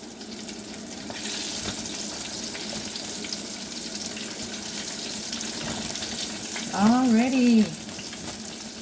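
Spicy dill pickles deep-frying in a pot of hot grease: a steady sizzle that grows louder about a second in. A short hummed voice sound comes near the end.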